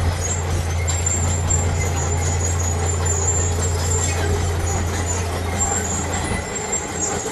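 Heavy diesel engine of earthmoving machinery running steadily under load, a deep continuous drone that eases slightly near the end.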